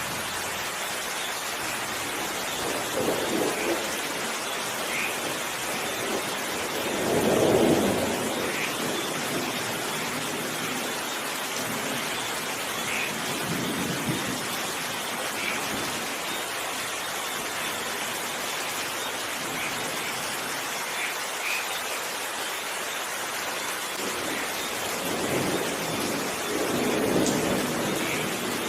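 Steady rain with rumbles of thunder; the loudest rumble swells about seven seconds in, and a longer roll of thunder builds near the end.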